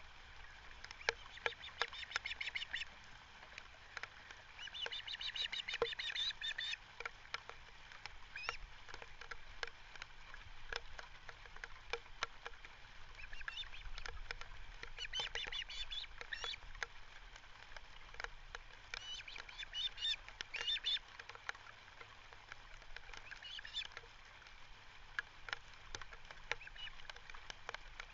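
Ospreys calling at the nest: several bouts of rapid, high chirping whistles, each lasting a second or more, with faint clicks scattered between them.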